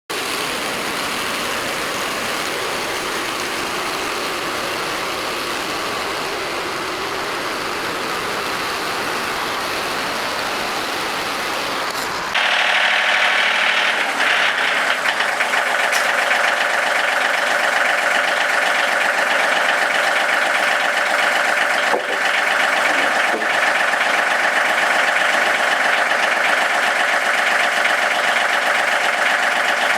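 Portable band sawmill running steadily, its engine driving the band blade through a black walnut log. About twelve seconds in, the sound suddenly gets louder and higher and stays that way.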